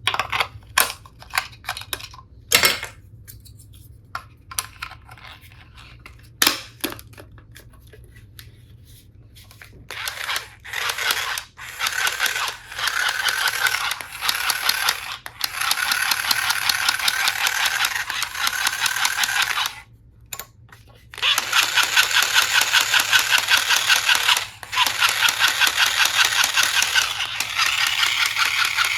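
Clicks and taps of plastic toy parts being handled, then a battery-powered toy tool's small motor whirring with a fast buzzing pulse. The whir breaks off for about a second about two-thirds of the way in, then starts again.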